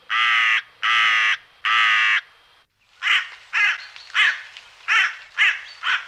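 A bird calling: three long calls about three-quarters of a second apart, then after a short pause a run of about six shorter calls.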